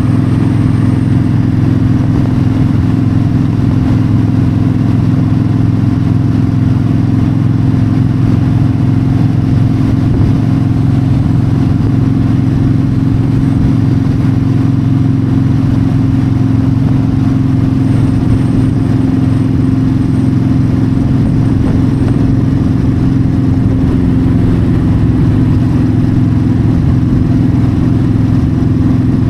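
Yamaha V-Star 1300's V-twin engine running steadily at an even speed while riding, with wind noise over it.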